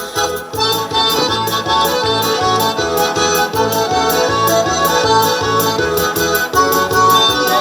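Mari folk dance tune led by accordion over a steady beat of about two pulses a second.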